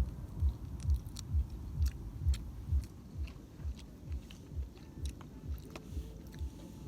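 A person chewing food close to the microphone: steady, low, even chewing thuds about two a second, growing a little softer about halfway through, with a few faint mouth clicks.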